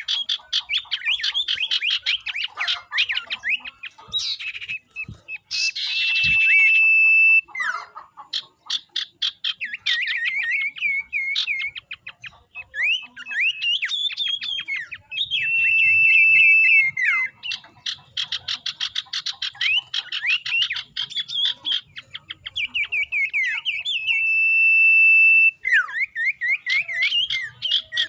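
Common iora (cipoh/sirtu) calling: rapid chattering notes, broken three times by a long steady whistle held for a second or more.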